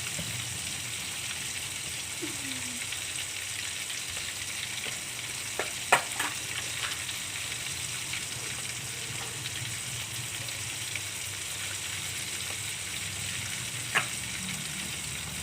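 Food frying in hot oil in a pan, a steady sizzle as it cooks through. A few sharp clicks come about six seconds in and again near the end.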